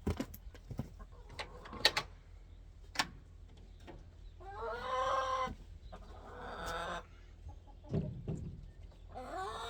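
Chickens clucking, with a longer wavering hen call about five seconds in and shorter calls later. Several sharp knocks and clatters come in the first three seconds, with a dull thump near the end.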